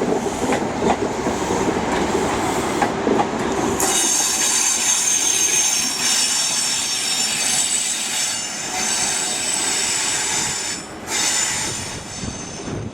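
A passenger train moving into a station platform, its wheels clattering over the rail joints. About four seconds in, a high wheel squeal with several tones starts and runs on until near the end.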